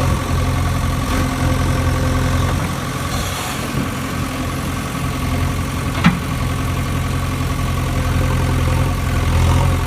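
Mini tractor's engine running steadily at idle, a low even hum, with a single sharp click about six seconds in.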